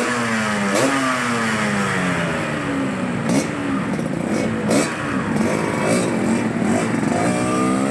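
Yamaha RX-King's two-stroke single-cylinder engine with an underbelly 'Lobster' aftermarket exhaust, revved in a series of throttle blips: each rev climbs quickly and drops back slowly, about five or six times.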